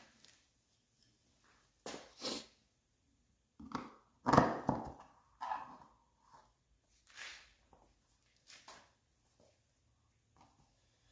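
Scattered short knocks and clunks of metal parts and tools being handled during reassembly, the loudest cluster about four and a half seconds in.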